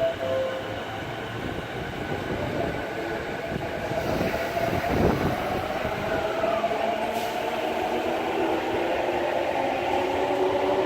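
Yamanote Line electric commuter train running on the track, its motors whining in a tone that slowly rises over the rumble of the wheels, with a short click about seven seconds in.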